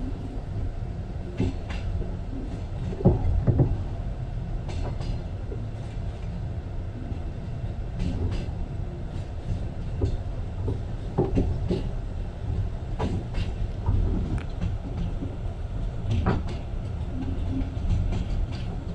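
Passenger train running along the track, heard from inside the carriage: a steady low rumble of wheels on rail with irregular clicks and knocks.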